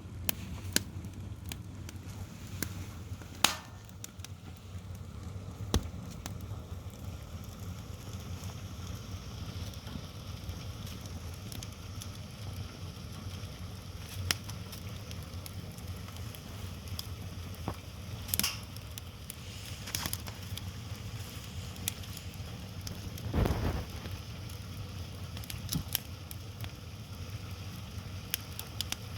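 Firewood fire burning with a steady low rumble and hiss, broken by scattered sharp crackles and pops. There is a duller thump about three-quarters of the way through.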